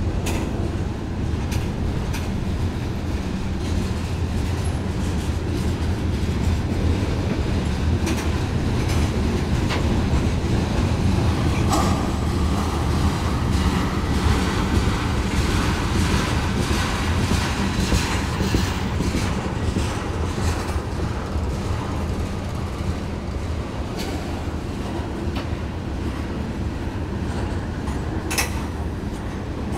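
Freight train of tank cars and covered hoppers rolling slowly past close by: a steady low rumble with scattered clicks of wheels passing over rail joints.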